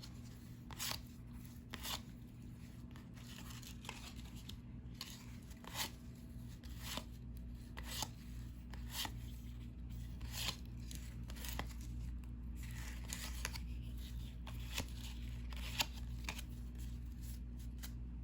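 Cardboard trading cards being slid off a stack and flipped one at a time, a short swish or snap every half second to a second over a steady low hum.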